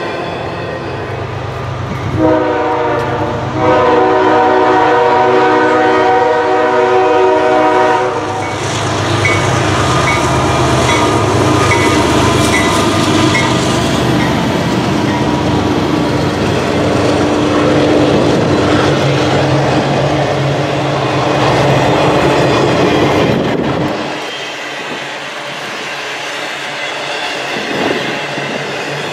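Diesel freight locomotive's air horn blows a chord for about six seconds. The lead locomotives' engines then pass, followed by intermodal container cars rolling along the track, which grows quieter a few seconds before the end.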